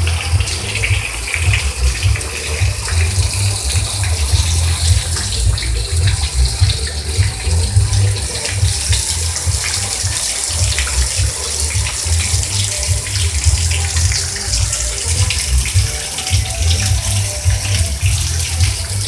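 Heavy rain pouring down and splashing on the ground: a loud, steady hiss made of countless drop impacts, over a constant low rumble.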